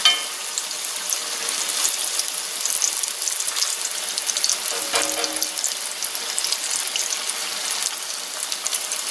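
Battered green tomato slices frying in about half an inch of hot oil in a cast iron skillet: a steady, dense crackling sizzle.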